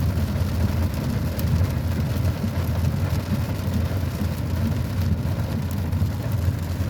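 Heavy thunderstorm: steady rain noise over a continuous low rumble.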